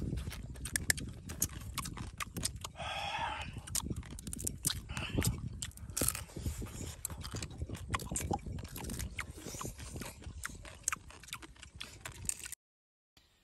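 Close-up chewing of cooked crab meat: wet mouth clicks, smacking and chewing, with a short voiced sound about three seconds in. The sound cuts off abruptly just before the end.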